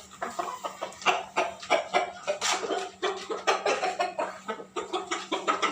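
Chickens clucking in quick, irregular calls, several a second.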